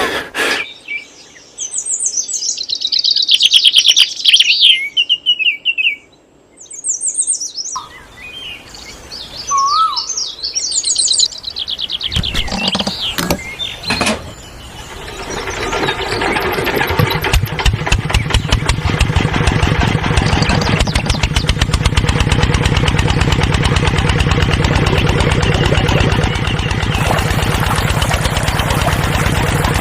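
Small birds chirping for the first dozen seconds, then a few knocks, and the DIY mini tractor's small engine starting about fourteen seconds in and running steadily with a fast, even putter.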